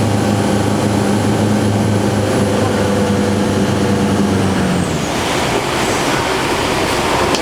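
Motorboat engine running steadily under way, then easing off about five seconds in as its hum and high whine fall away, leaving a steady rushing noise.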